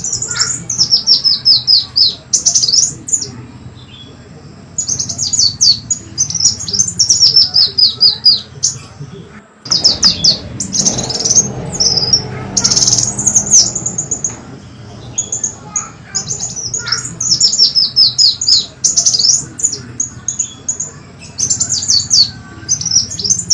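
Kolibri wulung (a sunbird) calling, played as a lure sound: bursts of high, rapid notes that step down in pitch, repeated every second or two. There is a short noisier stretch about ten seconds in.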